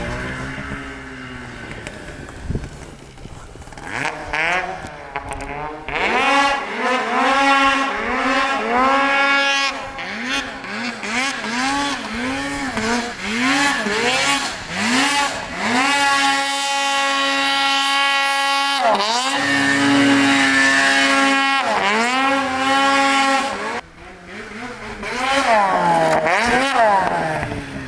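Two-stroke snowmobile engine revving up and down over and over as the sled is ridden through powder, then held at steady high revs for a few seconds in the middle, with a short drop in revs near the end.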